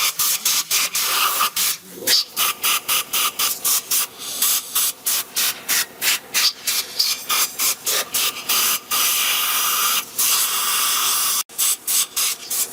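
Hissing air let out in rapid short bursts, about two to three a second, with one longer steady hiss lasting about a second near the end.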